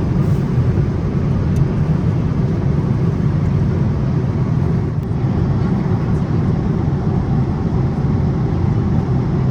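Steady low rumble of a vehicle in motion, heard from inside, even throughout with no distinct events.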